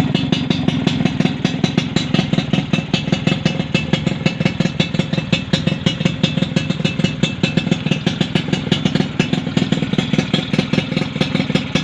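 Motorcycle engine idling through an aftermarket BM chrome under-body exhaust, a steady, even, rapid exhaust pulse with no revving.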